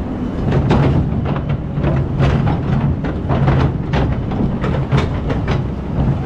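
Excavator's diesel engine running steadily, with irregular knocks and clatter several times a second from the machine working.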